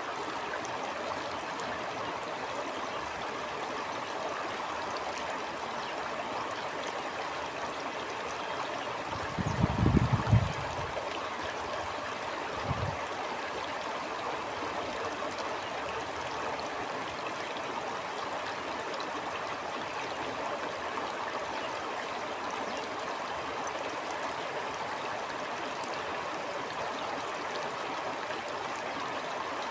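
Stream water flowing and gurgling steadily. Two low thuds interrupt it, a louder one about ten seconds in and a shorter, softer one a few seconds later.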